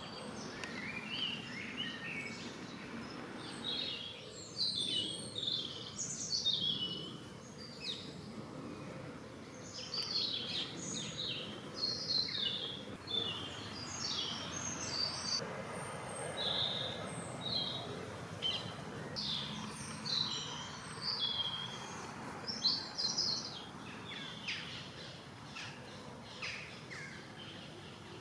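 Songbirds chirping and singing, many short high notes and trills, some in quick clusters, over a steady hiss of outdoor background noise.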